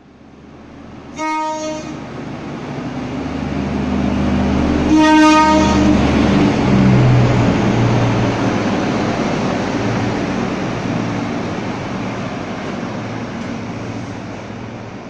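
Train horn sounding two short blasts about four seconds apart as the train comes through, then the rumble of the train passing close by, loudest a few seconds in and slowly fading.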